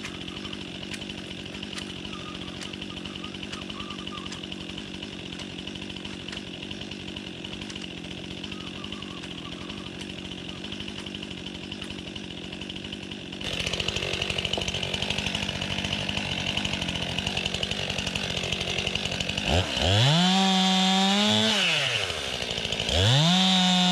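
STIHL MS261 two-stroke chainsaw idling steadily. It grows louder a little past halfway, then is revved up and let back down twice near the end. This is a run-up check that the freshly serviced saw runs well.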